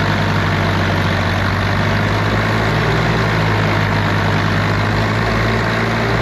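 Diesel tractor engine running steadily, with a constant low hum.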